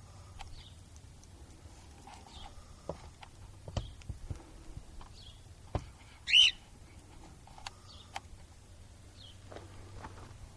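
Cockatiel giving one short, loud chirp about six seconds in, among faint scattered chirps and a few sharp clicks.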